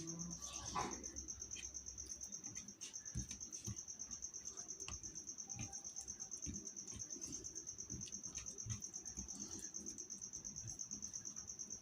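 A cricket chirping steadily in a fast, even trill of about five pulses a second, with scattered soft clicks and knocks.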